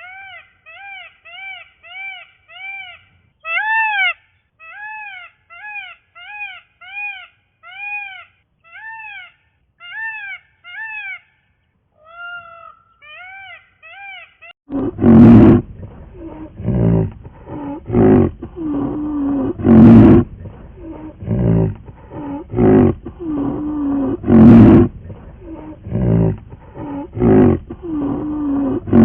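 A young cat mews rapidly and repeatedly in short, high, rising-and-falling cries. About halfway through, these give way to a big cat, a tiger, roaring and growling in loud, deep, repeated roars.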